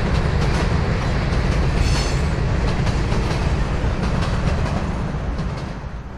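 Freight train cars rolling past, their wheels clicking over the rail joints, with a brief high wheel squeal about two seconds in. The noise falls away near the end as the cars pass.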